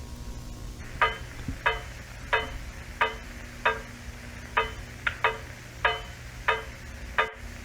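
A short pitched blip, the same note each time, repeating about every two-thirds of a second from about a second in, once doubling quickly, over a steady low hum: a sound effect from the horror video's soundtrack.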